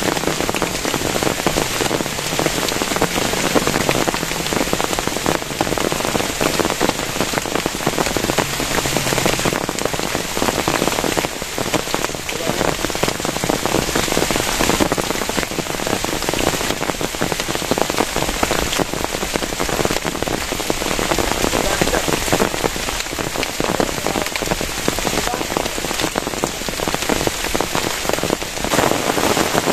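Heavy rain falling steadily on a plastic-sheet shelter, a dense, even hiss of countless drops.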